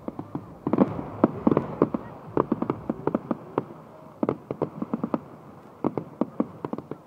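Fireworks going off in a rapid, irregular string of bangs and crackles, thickest about a second in, thinning around three to four seconds in, then picking up again.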